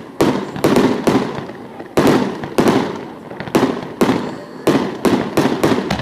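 Fireworks finale: shells bursting one after another, sharp bangs about two or three a second, each trailing off before the next.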